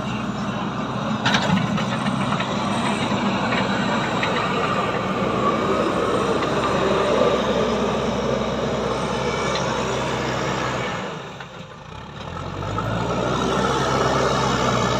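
Heavy machinery engine running, steady and noisy; it fades out for about a second near the two-thirds mark, then a steady lower engine hum comes back in.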